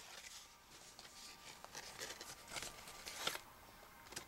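Faint, irregular rustling and crinkling of cardstock as the paper explosion box is handled, with a couple of louder crackles past the middle.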